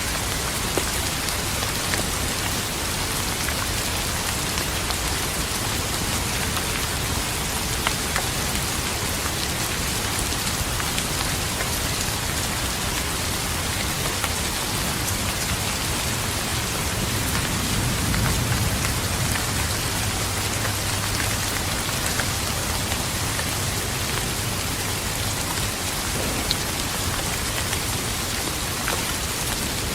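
Steady rainfall hissing evenly, with occasional sharper drop ticks. A low rumble of thunder swells and fades about two-thirds of the way through.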